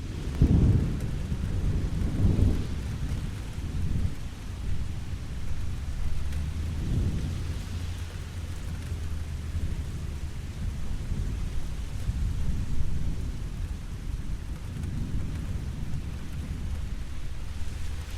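Steady rain hissing, with low thunder rumbling underneath that swells and fades several times, loudest about half a second in.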